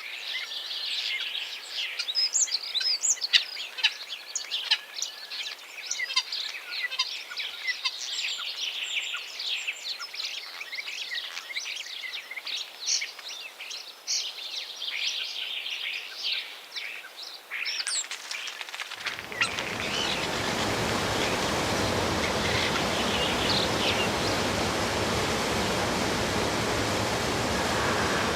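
Many small birds chirping and singing in quick, overlapping calls. About two-thirds of the way through, it switches abruptly to a steady, louder rushing noise, with the birds faint behind it.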